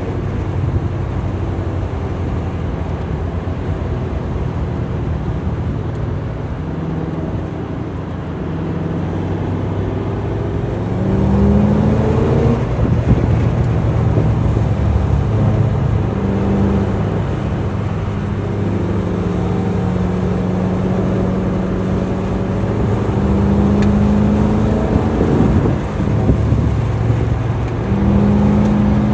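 Lincoln Mark VIII's 4.6-litre DOHC V8 heard from inside the cabin at track pace, running at about 3,000 rpm over steady wind and tyre noise. Its pitch rises as the car accelerates out of corners, about eleven seconds in and again near the end, and falls away under braking in between.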